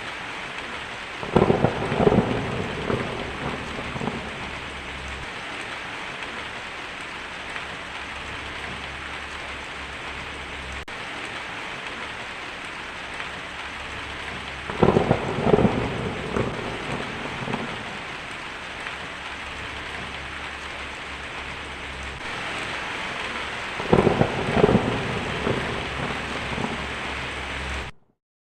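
Heavy rain drumming steadily on a tin roof, with three rolls of thunder of two to three seconds each: about a second in, halfway through, and near the end. The sound cuts off suddenly just before the end.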